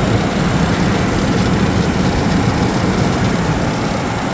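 Steady low rumble of a running vehicle, the 1999 Ford F-250 with its 4.6-litre V8.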